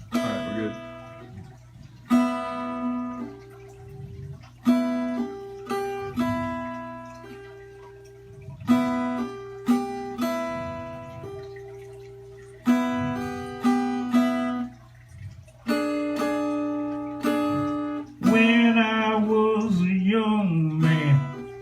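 Acoustic blues guitar intro: chords struck every second or two and left to ring out. About eighteen seconds in a harmonica joins with long, bending, wavering notes.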